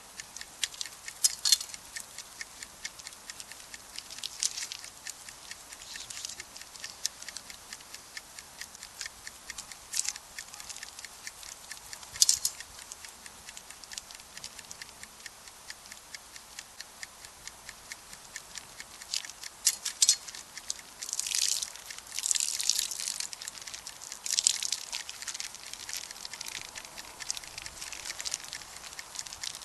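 Wood campfire crackling, with many small irregular snaps and an occasional sharper pop, the loudest about twelve seconds in. A few seconds of louder hissing come about two-thirds of the way through.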